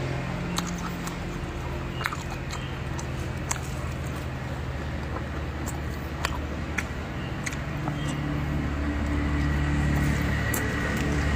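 A person chewing food with lips closed, with short wet clicks scattered throughout. Under it runs a low steady hum that grows louder near the end.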